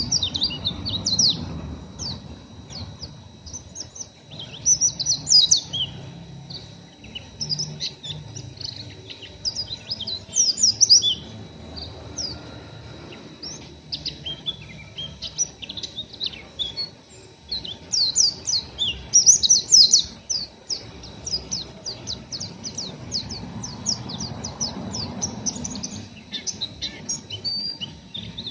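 Pleci (white-eye) giving its rough twitter, bursts of quick, high, sliding chirps with short pauses between. It is the coarse 'ngeriwik' of a raw, still-untrained bird.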